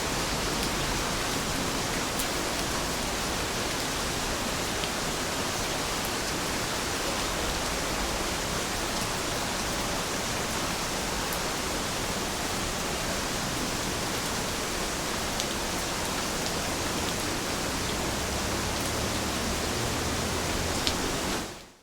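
Steady rainfall, an even hiss with an occasional faint drip tick, fading out quickly over the last half second or so.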